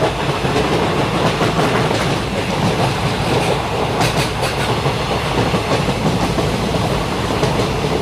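A train running along the track, a loud steady rumble with a few sharper clicks about halfway through.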